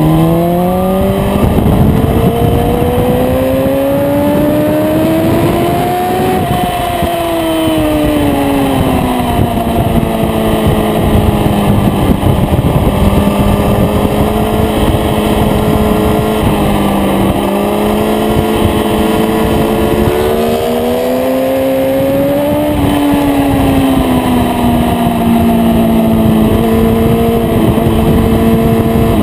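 Aprilia RSV4's V4 engine running hard at high revs, its pitch climbing for about six seconds, then sliding down and holding steady, climbing and falling again about two-thirds of the way through, and stepping up near the end. Heavy wind rush runs underneath.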